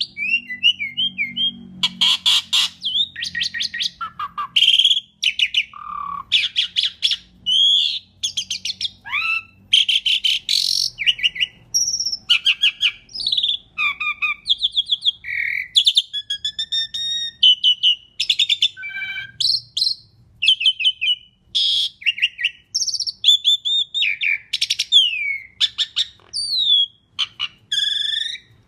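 Asian pied starling (jalak suren) singing a long, fast run of varied phrases: harsh rattling notes, clear whistles and rising and falling glides, with short gaps between phrases.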